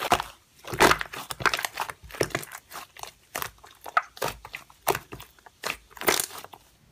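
Slime being squished and pressed by hand, with dense, irregular crackling and crunching clicks.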